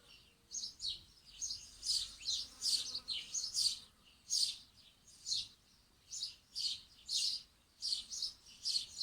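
Small birds chirping: a steady string of short, high chirps, about two a second, starting about half a second in.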